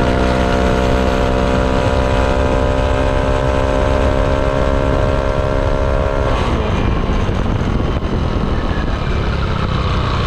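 Yamaha Aerox 155 scooter's single-cylinder engine breathing through a ROB1 aftermarket exhaust, running at a steady speed while riding, with a constant low rumble of wind. About six seconds in the engine note falls as the throttle is eased off, and the sound turns rougher.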